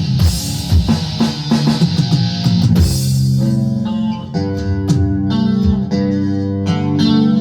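Rock music with electric guitar, bass and drums. About three seconds in, the crashing cymbals drop away and ringing guitar chords carry on over sparser drum hits.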